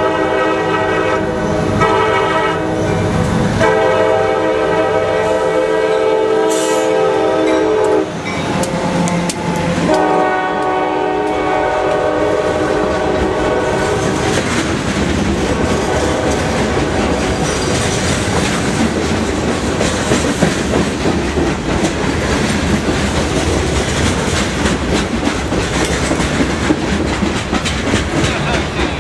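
CSX freight locomotive's air horn blowing as the train nears the crossing: one long blast, a brief break about eight seconds in, then a second blast that stops about halfway through. The train then rolls by close up, freight car wheels clacking over the rail joints.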